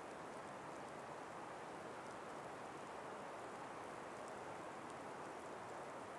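A calm, steady breeze through an ice- and snow-laden forest, a faint, even hiss with a few scattered faint high ticks.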